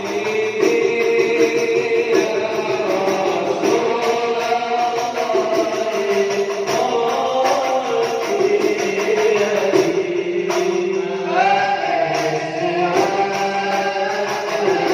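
Shalawat devotional singing, voices carrying a melody over frame-drum and tambourine percussion.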